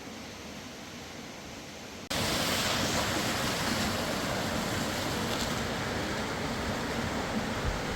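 Fast-flowing river water rushing, a steady wash of noise. It jumps abruptly much louder about two seconds in, as if brought closer.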